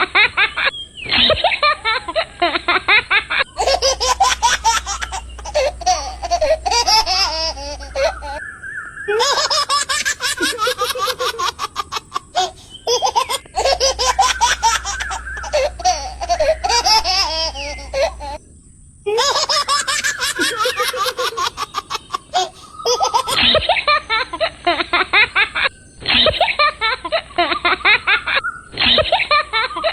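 A baby laughing in repeated giggles and belly laughs, in several separate takes joined one after another.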